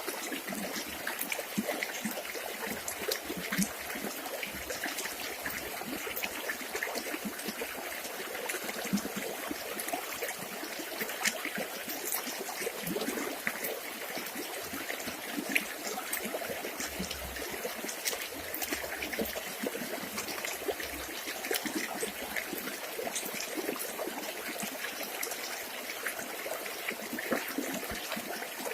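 River water trickling steadily, with many small splashes and drips through it.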